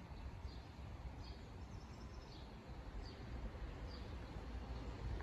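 Birds chirping in short calls about once a second over a steady low outdoor rumble.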